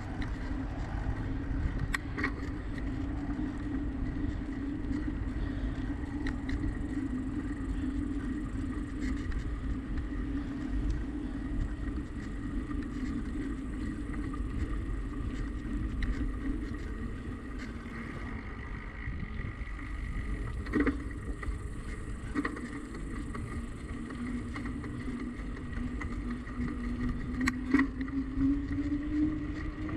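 Bicycle riding noise: a steady low rumble of wind and tyres on pavement, with a constant hum that dips and then climbs in pitch near the end, and a few sharp clicks from bumps.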